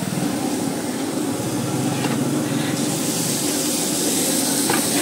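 Chopped onion and tomato sizzling in oil on a large flat tawa griddle, over a steady low rumble; the hiss grows brighter about three seconds in.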